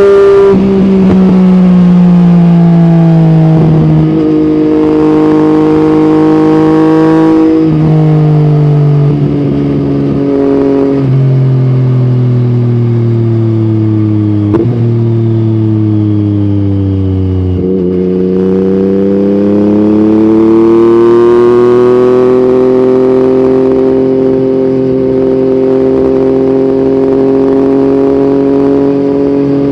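Yamaha MT-09's crossplane three-cylinder engine running through an Akrapovic exhaust under riding load. Over the first half its pitch falls, with several abrupt jumps at gear changes. Then it climbs steadily as the bike accelerates, about two-thirds of the way through, and settles into a steady cruise.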